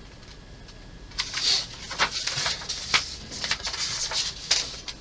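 Paper rustling and crackling as a model kit's instruction booklet is handled and unfolded, in quick irregular bursts with sharp crinkles, starting about a second in.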